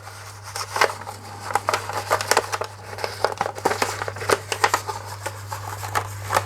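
Rexel LV250HS laminator running with a steady low hum, with irregular clicking and crackling as paper is pushed at its rollers but does not yet feed through.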